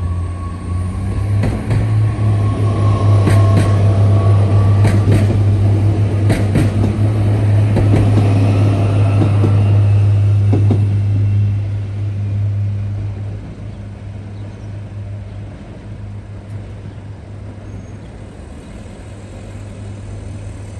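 TER regional diesel multiple unit passing over a road level crossing. A steady low engine drone runs under sharp wheel clacks every second or two as the wheels cross the rail joints, and it fades after about twelve seconds.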